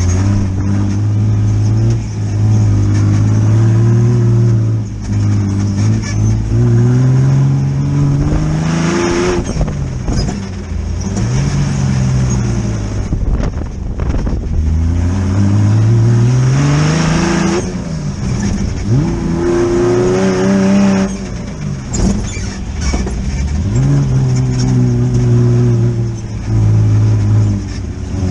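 Air-cooled VW engine of an off-road buggy being driven hard, revving up and easing off over and over, its pitch climbing with each pull and dropping back between.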